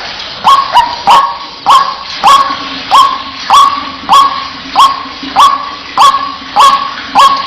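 White-breasted waterhen calling: a steady series of sharp, loud "wak" notes, about two a second.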